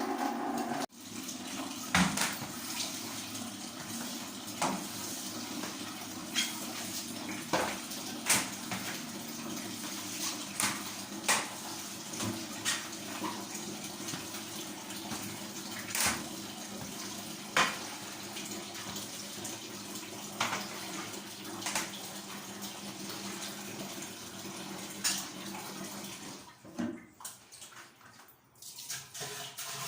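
Water running steadily from a tap, with scattered sharp clicks and knocks of things being handled against hard bathroom surfaces. The water shuts off near the end.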